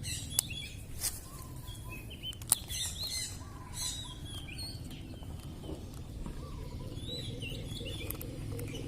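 Small birds chirping repeatedly, with two sharp clicks, one near the start and one about two and a half seconds in.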